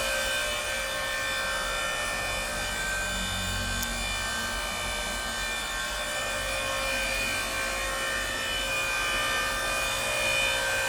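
Electric motor of an 8-ton hydraulic log splitter running steadily, a constant hum.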